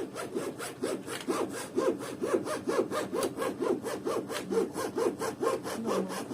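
Windscreen cutting wire sawed quickly back and forth through the urethane sealant holding the glass, a rasping stroke about five times a second.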